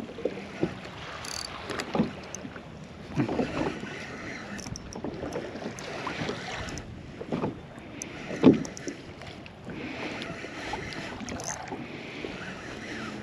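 Water lapping against a kayak's hull with wind on the microphone, broken by a few irregular knocks and splashes, the loudest about two-thirds of the way through.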